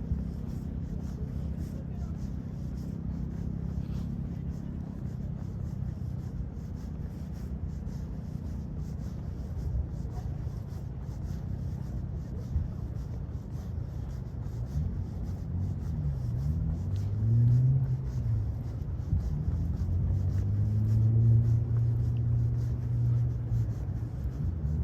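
Night-time city traffic ambience: a steady low rumble of road traffic, with vehicles passing in the second half whose engine tones rise and fall.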